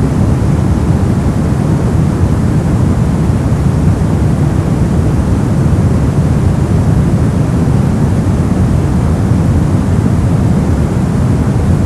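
Steady brown noise: an even, deep rumbling hiss with most of its weight in the low end and little treble, unchanging throughout.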